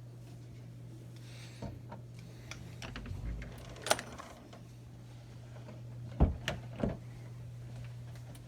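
A steady low hum with a handful of scattered sharp knocks and clicks, the loudest about four seconds in and a small cluster of three between six and seven seconds.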